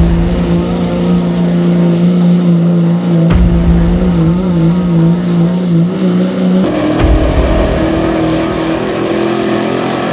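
Diesel pickup truck engine held at high, steady revs under heavy load during a truck pull, its pitch wavering slightly. The sound changes abruptly twice, about three and seven seconds in, as one clip cuts to the next.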